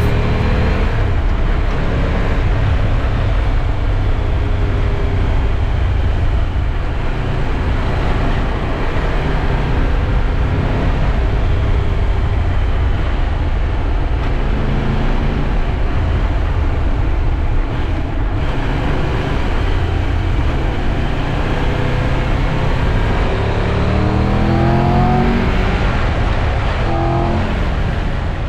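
Triumph Tiger 1200 Rally Pro's three-cylinder engine running under way, with a heavy low rumble of wind noise over the microphone. The engine note rises a couple of times near the end as it accelerates.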